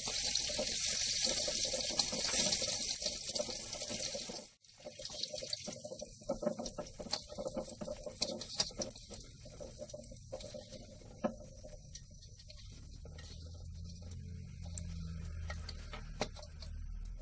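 Garlic, bird's eye chilies and curly red chilies sautéing in hot oil in a wok: a steady sizzling hiss for about four seconds, then, after a brief break, lighter crackling and popping of the oil.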